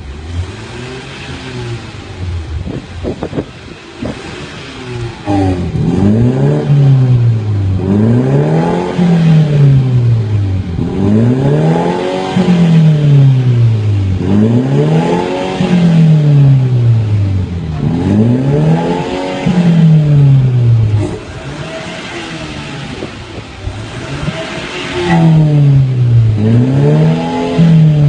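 BMW F30 330i's turbocharged four-cylinder engine through an aftermarket valved exhaust, idling for a few seconds and then revved over and over, the pitch climbing and falling about every three seconds. It drops back to idle for a few seconds past the middle, then revs again.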